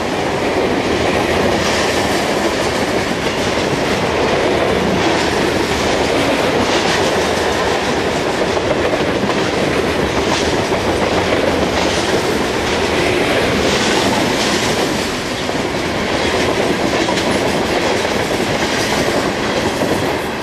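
Freight train of coke hopper cars rolling past: steady rumble of steel wheels on rail, with repeated clickety-clack as wheel sets pass over rail joints.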